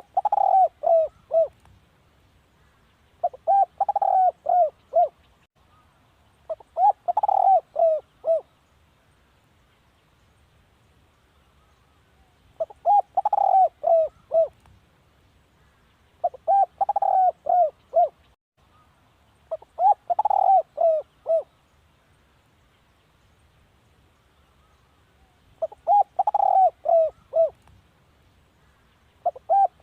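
Spotted dove cooing: short phrases of four or five quick coos, repeated every three to four seconds, with two longer pauses between groups.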